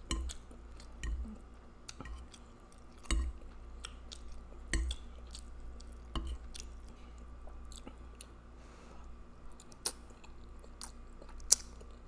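Close-miked chewing of spaghetti with meat sauce: wet mouth sounds with many scattered sharp clicks and a few soft low thumps.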